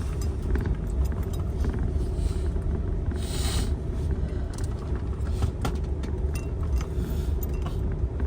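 Car driving slowly over a rough dirt road, heard from inside the cabin: a steady low rumble of engine and tyres with scattered knocks, and a brief hiss about three seconds in.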